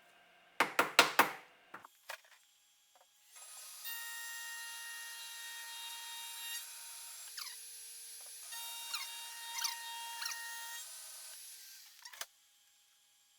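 A power tool runs for about eight seconds with a steady high whine and a few brief pitch slides, after a quick series of loud knocks about a second in.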